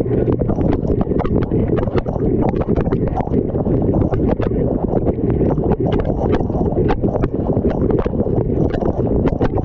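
Dishwasher running a normal wash cycle, heard from inside the tub: a loud, steady, deep rush of water jets spraying, with irregular sharp clicks and knocks several times a second.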